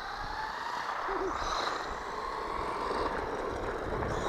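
Hobby-grade 1/12-scale 4WD electric RC car driving, its motor and gears giving a steady whine that rises slightly in pitch and then holds.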